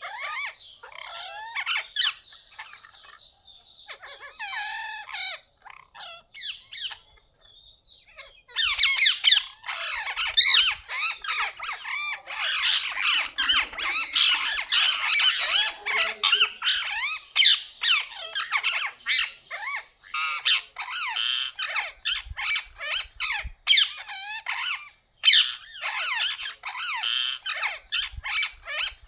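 Parrots calling: scattered squawks at first, then, after a short lull about eight seconds in, many birds squawking and chattering at once in a dense run of short overlapping calls.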